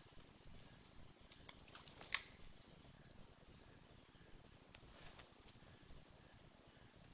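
Faint, steady high-pitched drone of insects calling, with one sharp click about two seconds in.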